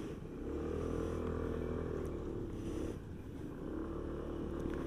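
Motorcycle engine running under way; its pitch climbs at first, dips about three seconds in, then picks up again.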